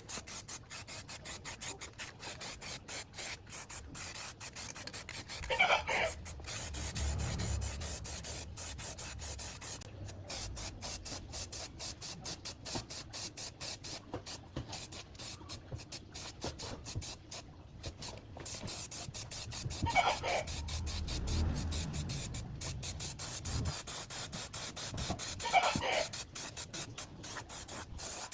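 Steady hand scraping or abrading on a part, in many quick repeated strokes, with a few louder scrapes about six seconds in, around twenty seconds and near the end.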